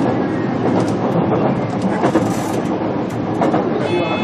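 Running sound inside a JR Kyushu BEC819 battery electric train car: a steady rumble of wheels on rail with scattered clicks of rail joints. A steady high whine comes in near the end.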